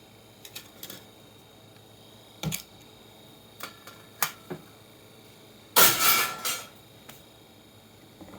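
Parts and tools handled on a workbench while a computer power supply is taken apart: scattered light clicks and knocks, then a louder clatter of several hard, slightly ringing hits about six seconds in.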